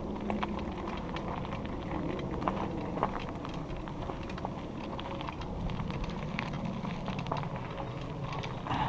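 Bicycle tyres rolling over a rough trail surface, with a steady rumble and many small irregular clicks and rattles from the bike going over bumps.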